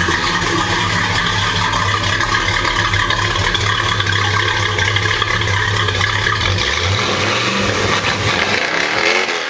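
1968 Dodge Charger's 383 big-block V8 running loud and steady shortly after a cold start, its note shifting briefly near the end.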